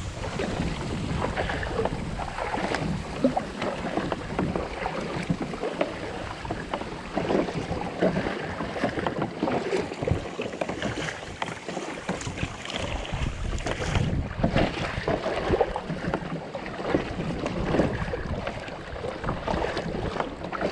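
Wind buffeting the microphone of a kayak out on the sea, with water noise around the hull.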